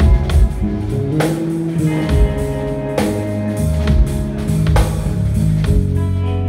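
Live band music: electric guitar playing over held bass notes and drums, with hits about once a second.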